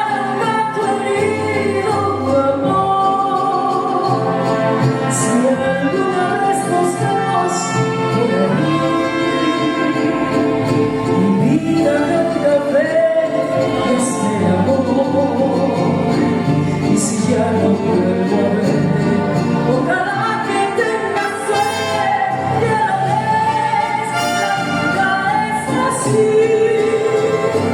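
A woman singing a slow ballad over orchestral accompaniment.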